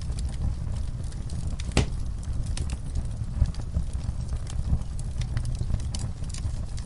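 Fireplace fire crackling over a low, steady roar, with scattered small pops and one sharper pop about two seconds in.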